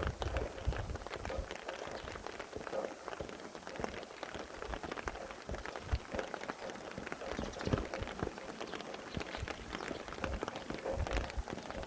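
Steady rain, a dense patter of raindrops falling on surfaces, with a low rumble of wind coming up near the end.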